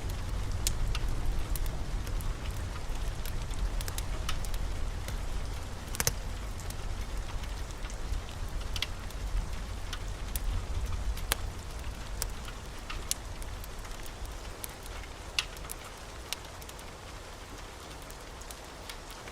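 Wood fire crackling in a fireplace: irregular sharp pops and snaps over a steady hiss and a low rumble of flame that eases off in the second half.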